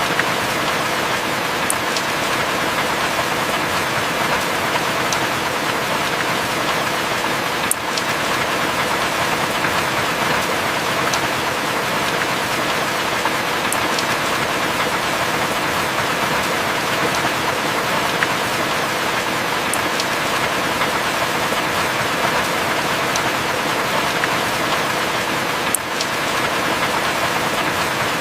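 Heavy rain falling steadily, a dense even hiss, with a few sharp drip ticks every several seconds.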